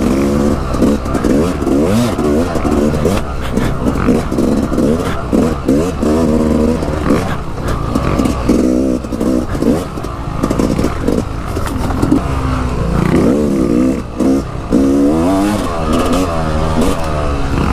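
Dirt bike engine revving up and down repeatedly as it rides a rough trail, its pitch rising and falling with the throttle, with frequent sharp clattering knocks from the bike over the bumps.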